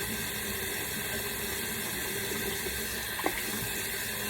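Water running steadily from a sink faucet, with one brief knock about three seconds in.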